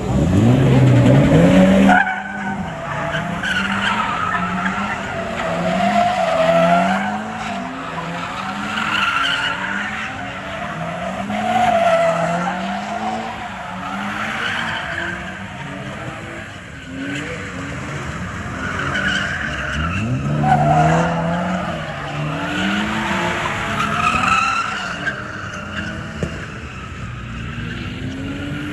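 A car drifting in donuts: its engine revs up and falls back over and over, about once a second, while the tires squeal steadily. The biggest rev comes in the first two seconds.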